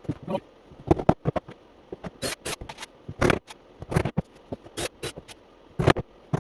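Wooden beehive frame parts being handled and fitted together: irregular light clicks, taps and scrapes of wood on wood, several to the second.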